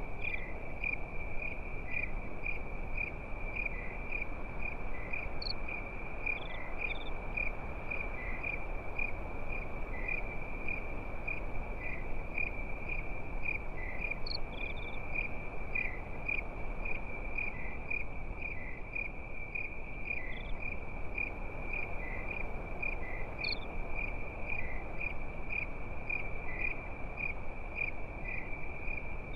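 Crickets chirping at night in a steady, pulsing chorus, with a low even hiss underneath.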